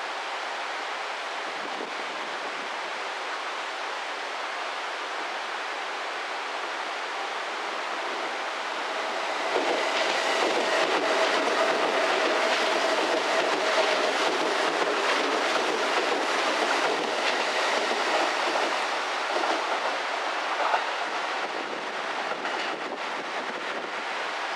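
Hanshin electric train passing at reduced speed, wheels clicking over rail joints with a steady whine, over a steady rushing noise. The train builds up about nine seconds in and fades after about twenty.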